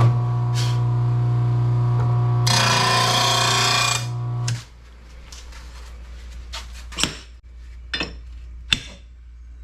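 RBG 712 mower blade sharpener running with a steady hum. About two and a half seconds in, a mower blade is swiped across the grinding wheel, giving a loud grinding hiss for about a second and a half. The hum stops a little after four seconds, and a few sharp knocks follow near the end.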